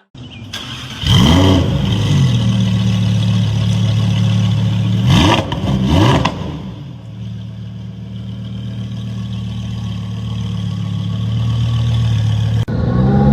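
Lamborghini engine running with a steady drone, blipped hard three times: one sharp rev about a second in, then two quick ones in succession, each sweeping up in pitch and falling back. The sound cuts off suddenly near the end.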